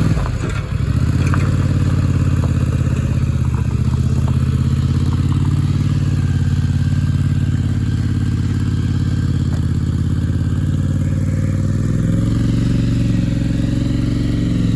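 A vehicle engine running steadily under load at low speed as it tows a small wooden shed-style blind across a yard, its pitch shifting about twelve seconds in.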